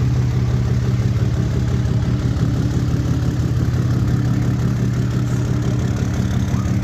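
Car engine idling steadily, a low even hum with a fast regular pulse.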